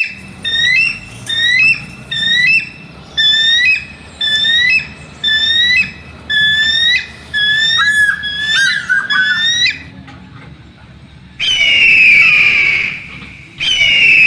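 A bird of prey calling: a run of about a dozen short, rising, whistled calls in a steady rhythm, then a pause and two long, loud, screaming calls that slide down in pitch.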